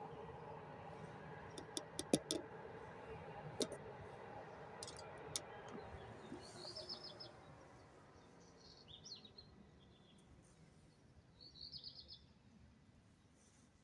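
Small birds chirping in short bursts three times, over the fading rumble and hum of a receding train, with a few sharp clicks in the first half.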